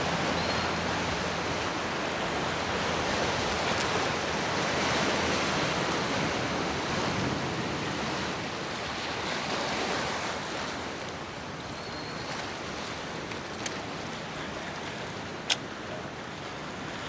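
Ocean surf and wind washing steadily, easing off a little past the middle, with a single sharp click near the end.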